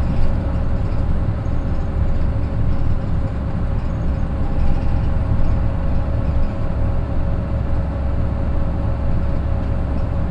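The Mitsubishi Fuso Aero Midi bus's naturally aspirated 6M61 diesel engine runs at a steady speed, heard from inside the bus as a low rumble. Over it sits a steady whine of unchanging pitch, the gear noise of the DD5M gearbox.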